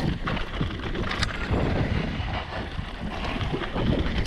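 Hardtail mountain bike ridden over a rough, bumpy dirt trail: the chain rattles and slaps with irregular clicks and knocks over a steady rumble of tyres and wind on the microphone.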